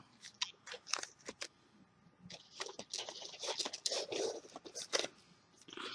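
A cardboard trading-card box and its packing being handled and opened: scattered light scratches, scrapes and taps.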